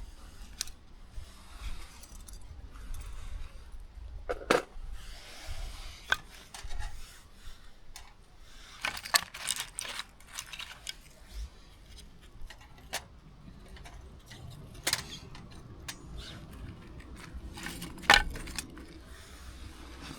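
Small hard objects being handled: irregular light clinks and knocks, several close together about halfway through and the loudest one near the end.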